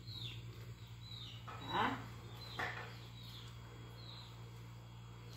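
A small bird chirping over and over, a short high falling note about twice a second, with one louder, longer falling call about two seconds in and a shorter one soon after. A steady low hum runs underneath.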